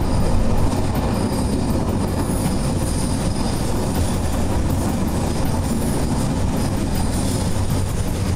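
Passenger train running at speed through a rock tunnel: steady, loud running noise of wheels on the rails.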